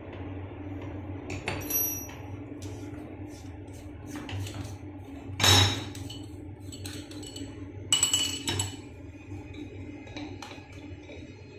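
Metal tools and fittings clinking and knocking against each other, with scattered light taps, a ringing clink about two seconds in, a loud knock about five and a half seconds in, and another ringing clink about eight seconds in.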